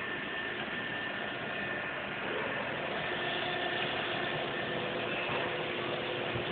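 Steady hum and noise of factory machinery running next door, with several steady tones in it; about two seconds in, more tones join and it grows slightly louder.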